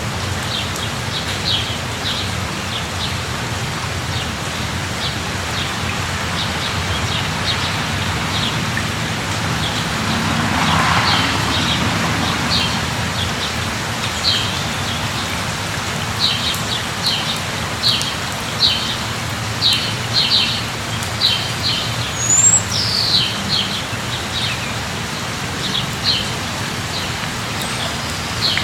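Steady rain falling, with birds chirping repeatedly in short high notes, most often in the second half. About ten seconds in the rain noise swells briefly.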